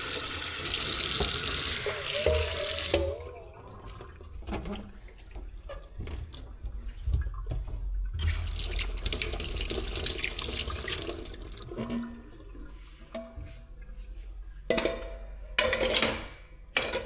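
Tap water running into a sink for about three seconds, then shut off, with scattered light clinks of dishes being handled. The tap runs again for about three seconds, followed by more clinks and a few short splashes near the end.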